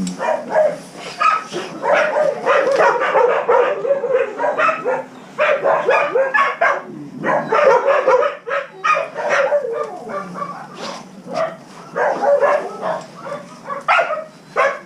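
Several shelter dogs barking and yipping over one another, almost without a break, with a few short lulls.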